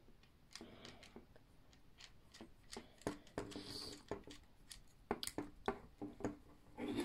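Plastic parts of a Meccano Junior construction kit clicking, tapping and rattling as they are handled and fitted together by hand, with a few louder knocks about three seconds in and near the end.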